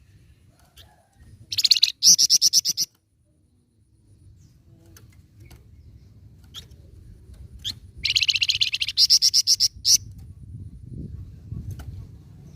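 Flamboyan bird singing: two loud bursts of fast, repeated high trilled notes, about two seconds in and again about eight seconds in, the second lasting about two seconds.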